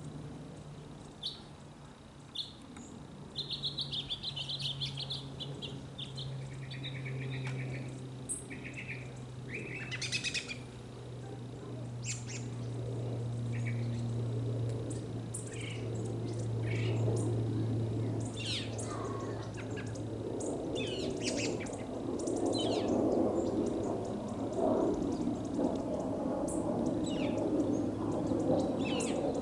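Small birds chirping in short, scattered calls over a low hum that slowly falls in pitch, with a broader low rumble growing louder in the second half.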